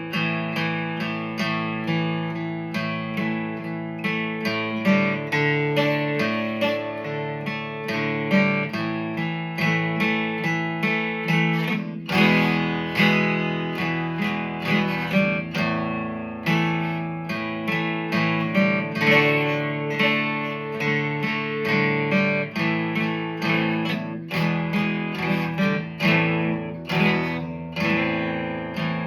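Instrumental passage of a song with no singing: an acoustic guitar strummed and picked to a steady beat, its chords changing every few seconds.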